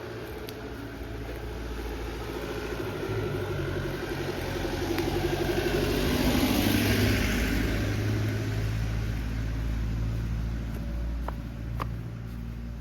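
A motor vehicle driving past, growing louder to a peak a little past halfway and then fading, its engine note dropping in pitch as it goes by.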